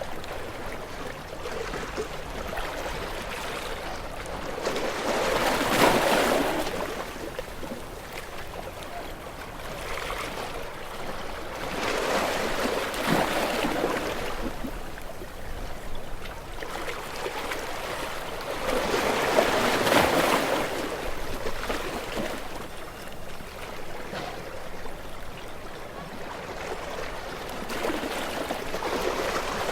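Gentle sea waves washing onto a shore, each one swelling up and falling back, about one every seven seconds, with a steady wash of water between them.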